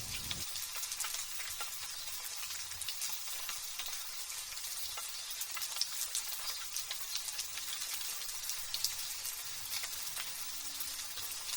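Light drizzle falling: a steady hiss made of many fine, quick drop ticks. A low rumble stops abruptly about half a second in.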